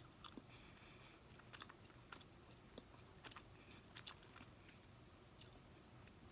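Faint mouth sounds of a person chewing a soft, sticky peach Puccho candy chew with the mouth closed: scattered small wet clicks.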